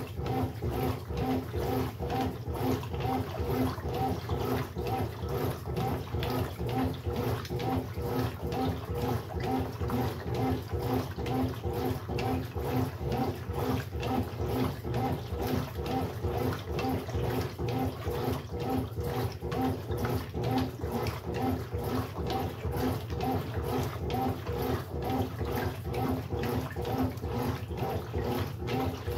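Brastemp Sexto Sentido 8 kg washing machine running, with water moving inside and a pitched hum that pulses evenly, two or three times a second.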